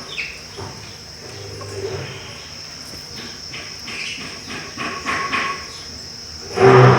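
Steady high-pitched insect drone, like crickets, with a few short falling sparrow chirps and scattered light clicks. A louder low, pitched call or voice comes in near the end.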